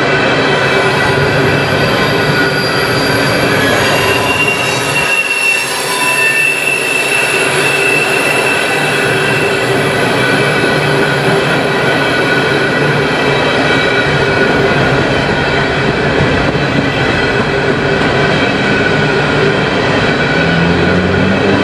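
Empty steel coal hopper cars of a freight train rolling past at speed: steady, loud wheel-on-rail noise with several high, thin ringing tones from the wheels squealing.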